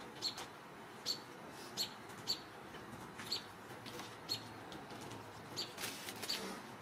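A small bird chirping: short, high chirps repeated every second or so, with a quicker cluster near the end, over a faint steady hiss.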